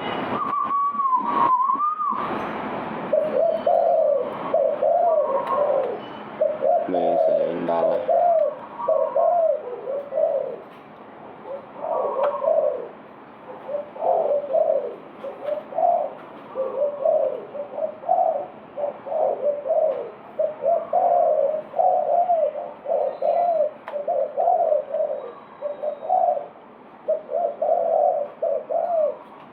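Spotted dove cooing over and over in short repeated phrases. In the first couple of seconds there is also a wavering higher whistled note and a few sharp knocks.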